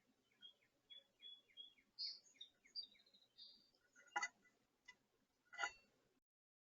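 A songbird singing: a run of about five quick repeated down-slurred notes, then a higher, more varied phrase. Two sharp knocks follow, one about four seconds in and another near the end, and the sound cuts off abruptly just after six seconds.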